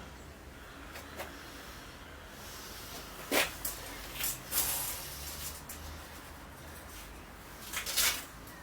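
Handling noises: a few sharp knocks and clicks with short scraping rustles, the loudest about three and a half seconds in and again near the end.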